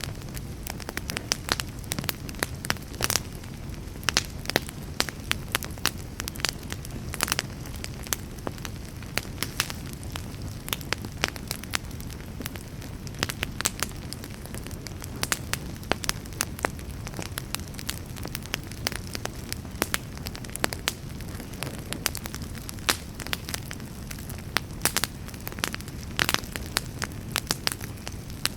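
Fire in a fireplace crackling, with frequent irregular sharp pops over a steady low rush of the flames.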